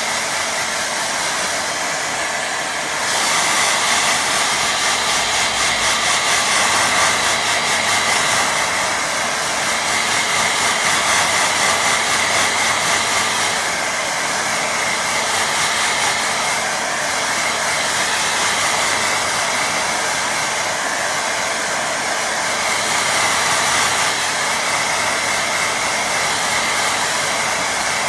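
Hair dryer blowing steadily to dry wet watercolour paint. It gets louder about three seconds in, then swells and eases a little as it is moved over the paper.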